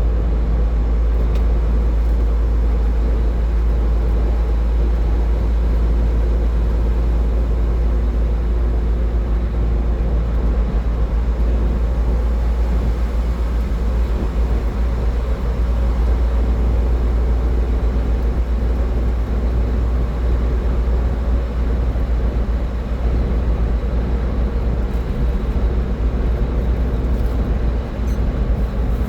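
Car driving at steady highway speed: a constant deep rumble of road and tyre noise with a faint engine drone over it.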